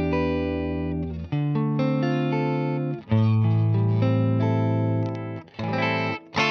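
Electric guitar played through the Boss IR-2 amp and cabinet simulator on its clean Boss amp model, with all controls at noon. Three chords are held and left to ring, the chord changing about a second in and again about three seconds in. Near the end come short, separate strummed chords.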